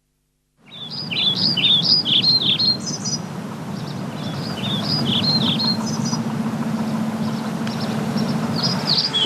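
Birds singing in quick chirping phrases, in three bursts, over a steady rushing background noise. It all begins abruptly about half a second in.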